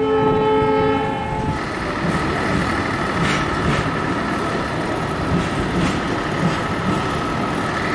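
An Indian Railways electric locomotive's horn sounds one steady blast that stops about a second and a half in. A freight train's wagons then roll past with a steady rumble, a thin high whine over it and a few faint clicks.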